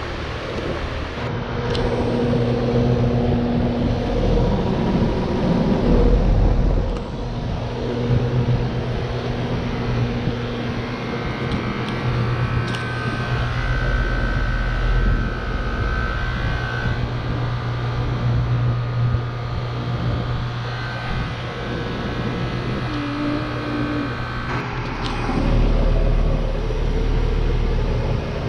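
Outdoor central air conditioner condenser units running: a steady low hum from the compressors under the even rush of the condenser fans.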